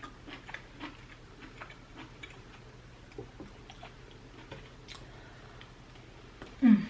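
Close-miked chewing of tomahawk steak: soft wet mouth clicks and smacks. A brief low hum of the voice comes near the end.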